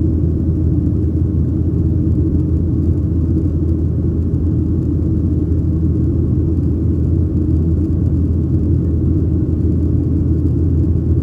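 Steady low rumble inside the cabin of a Boeing 737-800 with its CFM56-7B turbofan engines running, even in level and pitch throughout.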